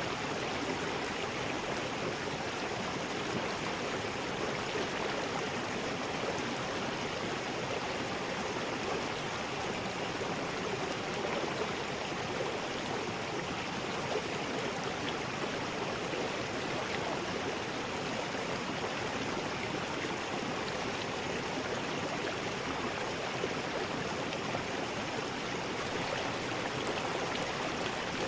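River rapids: water rushing and churning over rocks in a steady, unbroken roar.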